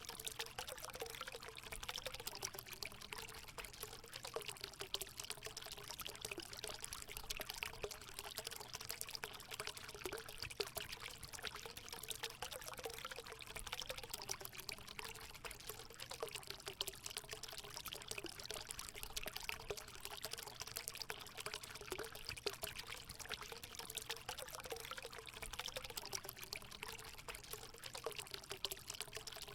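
Natural hot spring water pouring steadily into a pool, a constant splashing rush with a low note that wobbles up and down.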